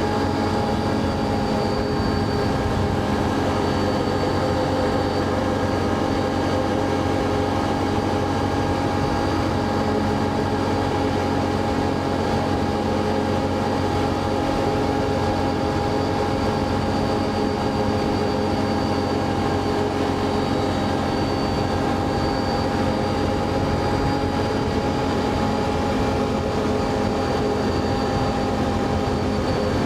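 ATV engine running at a steady cruising speed while being ridden: an even drone with several tones that hold their pitch, over a constant rush of noise.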